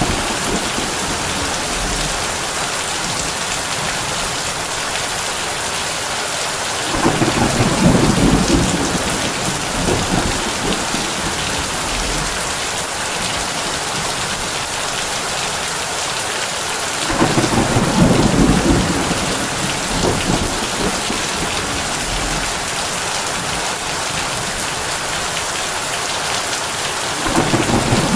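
Heavy rain falling on a tin roof as a steady hiss, with three rolls of thunder about ten seconds apart, the last beginning near the end.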